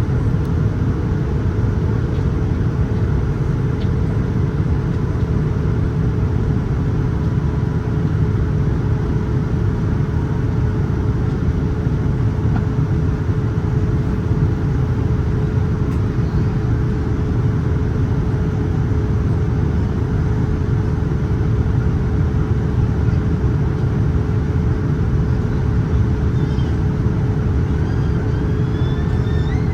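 Steady cabin noise inside a Boeing 787-9 airliner in flight: a constant low rumble of airflow and engines with a steady hum over it.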